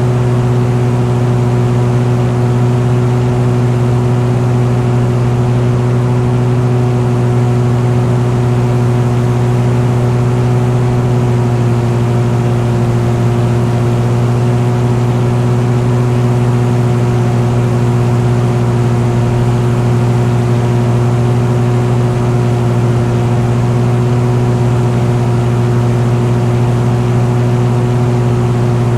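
An engine running at a constant speed: a steady drone with a strong low hum and higher overtones that holds the same pitch and loudness throughout.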